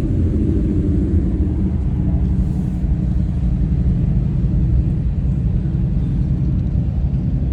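Ford Mustang Mach 1's V8 engine running steadily at cruise, with road rumble, heard from inside the moving car.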